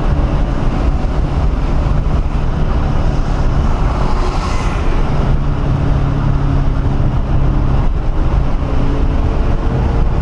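1997 SVT Cobra Mustang's 4.6-litre V8 running hard at track speed, heard from inside the cabin with wind and road noise. The engine note dips briefly about four seconds in, then picks up again.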